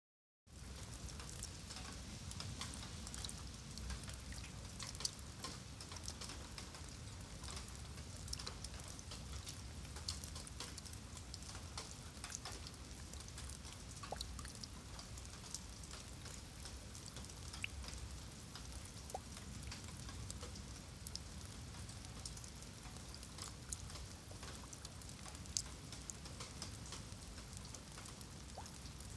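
Rain falling steadily on wet concrete paving slabs and puddles: a constant hiss full of small drop splashes and ticks.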